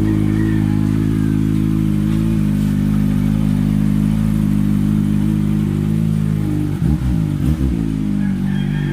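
Kawasaki ZX-25R's 250 cc inline-four engine with an Akrapovic exhaust idling steadily, with a short uneven wavering about seven seconds in.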